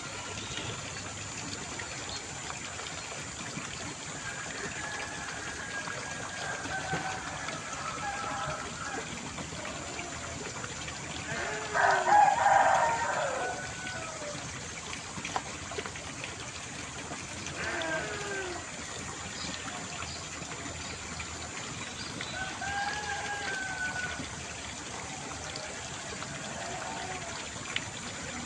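Steady trickle of running water, with occasional pitched calls over it; the loudest call comes about twelve seconds in.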